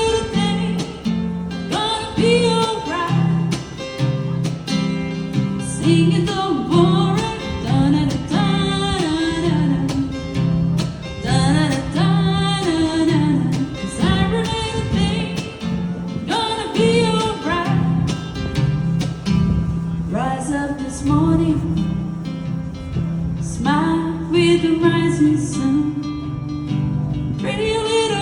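A woman singing with acoustic guitar accompaniment, a live cover of a reggae song; her voice rises and falls in phrases over steadily held guitar chords.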